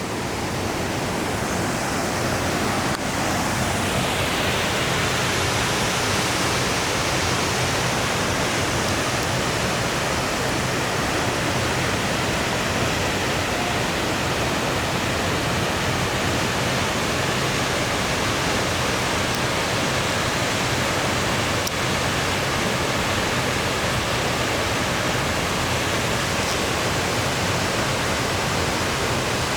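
Steady rush of a two-tiered mountain waterfall, South Fork Mineral Creek Falls, pouring down, with a little wind on the microphone.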